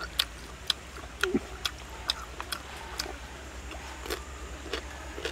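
Close-up chewing of crispy deep-fried pork belly: sharp, irregular crunches a few times a second.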